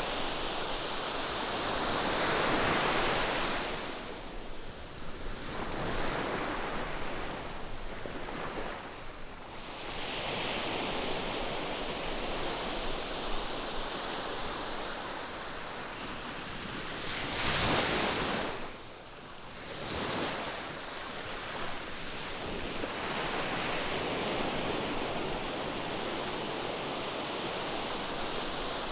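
Ocean surf breaking on a beach: a steady wash of waves that swells and ebbs, with one wave breaking louder about two-thirds of the way through. Some wind on the microphone.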